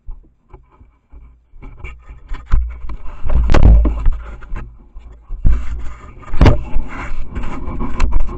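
Close, loud scraping and rubbing with heavy low rumbles and several sharp knocks, the loudest about three and a half and six and a half seconds in, as something brushes and scrapes right against the trail camera.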